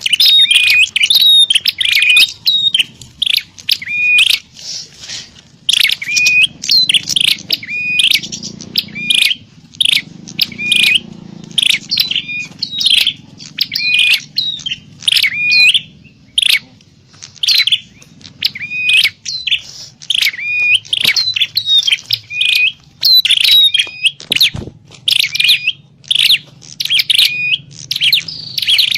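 Prenjak (prinias) calling in fast, excited runs of sharp, high chirps with short breaks between the runs. This is a lure recording of prenjak fighting, used to draw wild prenjak in.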